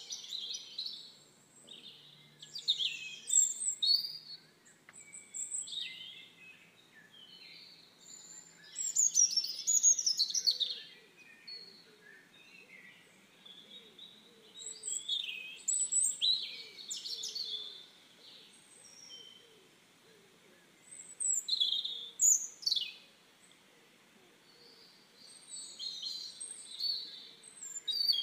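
Several songbirds singing, with varied high chirps and quick trills in phrases every few seconds and quieter gaps between.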